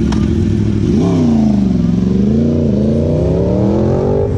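Car engine revving: a quick blip about a second in, then the engine note dips and climbs steadily as it builds revs, over the low rumble of idling engines, with a short sharp click at the very start.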